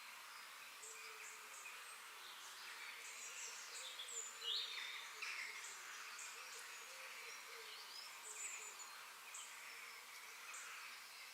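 Forest ambience: many small birds chirping and calling over a faint steady hiss, with short high chirps throughout and one louder, quickly falling call about four and a half seconds in.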